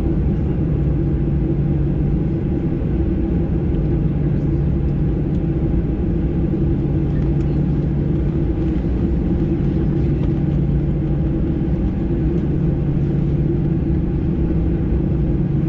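Steady rumble and hum inside the cabin of a Boeing 737-800, its CFM56-7B engines running at low power while the aircraft waits on the ground. The level stays even, with no rise of takeoff thrust.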